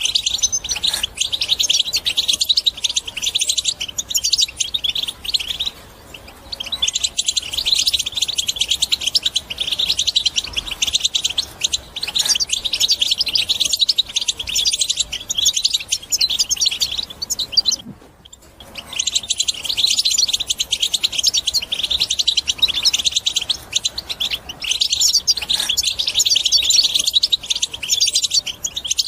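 European goldfinch singing a fast, high-pitched, unbroken twittering song, with short pauses about six seconds in and again about eighteen seconds in.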